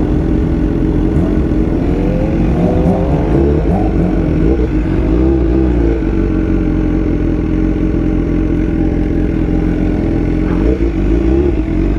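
BMW S1000R inline-four motorcycle engine running under way. Its pitch rises and falls with throttle in the first half, then holds steady.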